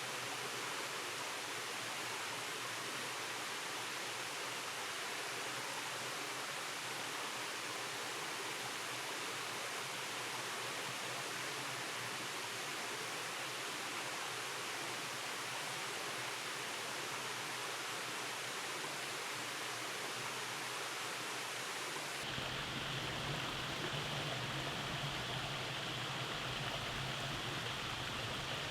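Rainforest stream rushing over rock cascades in a steady, even wash of water. About 22 seconds in, the sound changes abruptly to a fuller, deeper rush.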